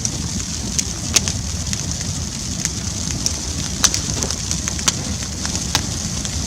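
Bonfire burning with a steady hiss and rumble, broken by sharp, irregular crackles and pops from the wood about once or twice a second.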